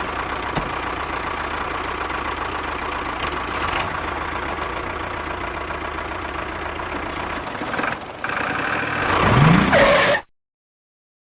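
Small engine or motor running steadily. It grows louder with a rising pitch near the end, then cuts off suddenly.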